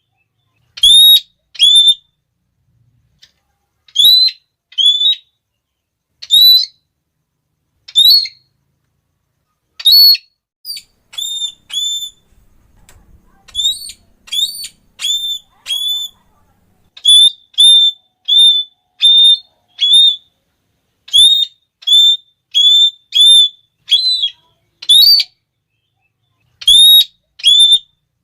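Red-cheeked parrot giving short, shrill, high "klee" calls, one after another, singly, in pairs and in quick runs, with gaps of silence between.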